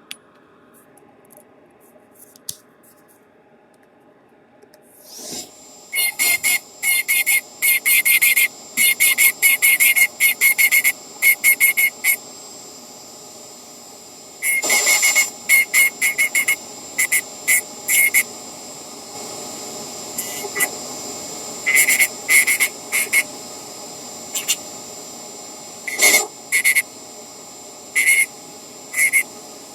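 Small high-speed rotary tool whining, starting about five seconds in and running steadily. Many short, much louder bursts of hissing whine break in, each lasting a fraction of a second to about a second.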